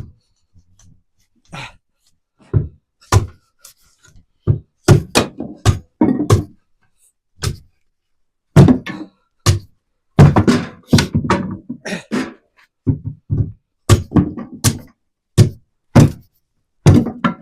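Kindling being chopped on wood: a long run of irregular chopping strikes, one or two a second and bunched faster about ten seconds in, each a sharp thunk with a low thud.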